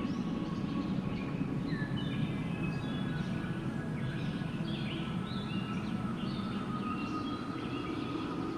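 Steady rushing wind with many small birds chirping in short high notes throughout.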